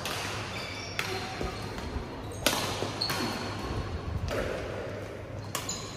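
Badminton rally: rackets striking a shuttlecock four times, about every second and a half, each sharp hit ringing in the large hall.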